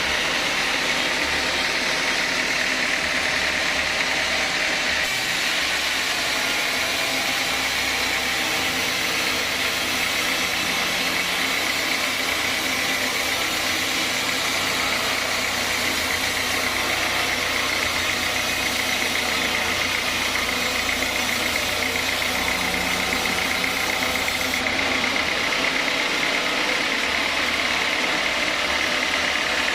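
Sawmill saw machinery running steadily. A brighter hiss joins about five seconds in and drops away near the end.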